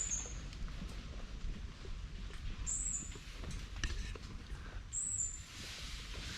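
A bird repeating a short, very high chirp that drops slightly in pitch, about every two to three seconds, over a steady low rumble.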